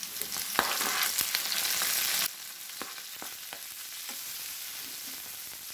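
Cut chilies going into hot oil in a frying pan, sizzling, with a slotted spatula scraping and tapping against the pan as they are stirred. The sizzle is louder for about the first two seconds, then drops suddenly to a quieter, steady sizzle.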